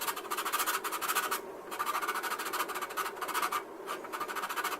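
Sandpaper or a sanding file rubbing quickly back and forth over a plastic model kit part, a dry scratching that stops briefly twice.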